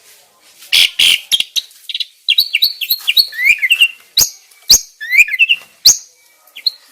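Songbird singing a fast, varied string of sharp chirps, whistles and click-like notes, some rising and some falling in pitch.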